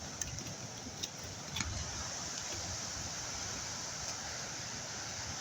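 Steady rush of a swollen, fast-flowing flooded river, a constant noise that rises a little about a second and a half in, with a few faint clicks near the start.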